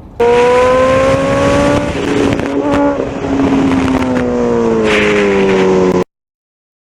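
Loud motor vehicle sound: a strong pitched tone over a rushing noise that starts abruptly, drifts slightly up, then falls over the last few seconds and cuts off suddenly about six seconds in.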